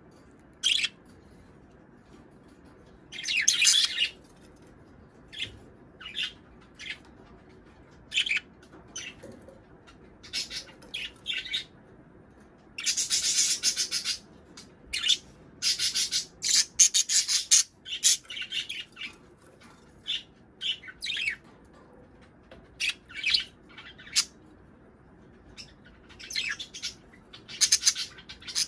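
Budgerigars chirping and chattering in short, scattered bursts, with a denser, louder run of calls around the middle.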